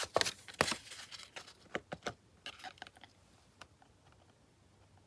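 Paper and craft supplies handled on a tabletop: a cluster of small clicks, taps and crinkles in the first two seconds, thinning out to a few separate ticks by about three and a half seconds in.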